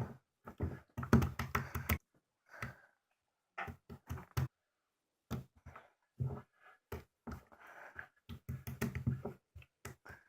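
Toy slime being squeezed and poked by hand, making irregular sticky clicks and pops in short clusters with brief pauses.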